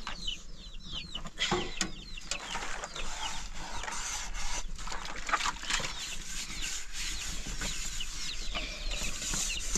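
Fowl cheeping: many short, high calls that slide downward, overlapping one another, with a few soft knocks among them.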